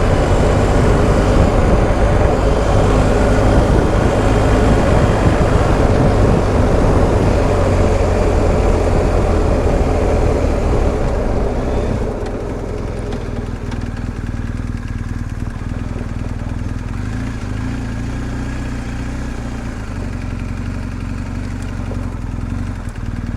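BMW R1250 GS Adventure's boxer-twin engine running under way, with wind rush. About twelve seconds in, the engine and wind noise drop to a quieter, steadier running as the bike slows.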